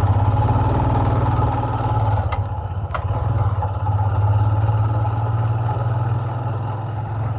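Royal Enfield Himalayan's 411 cc single-cylinder engine running steadily, with two brief clicks about two and three seconds in.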